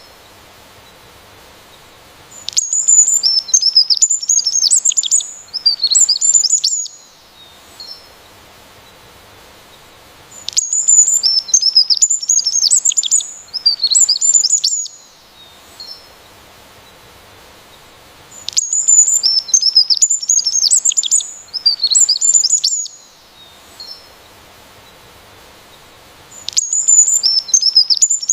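Bird chirping in rapid, high-pitched runs of twittering notes. Each run lasts about four seconds and the same pattern comes back about every eight seconds, four times, with a faint steady hiss in the gaps.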